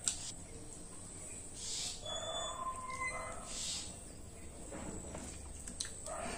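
Close-up eating sounds: wet chewing and lip smacking in several separate bursts.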